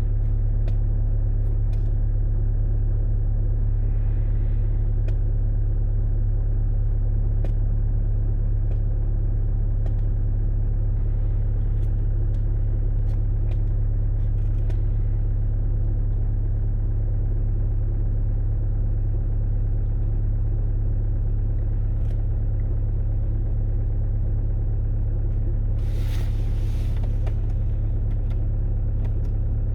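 2010 Skoda Octavia 1.6 TDI four-cylinder diesel idling steadily just after a cold start at about −20 °C. A brief rush of noise comes about 26 seconds in.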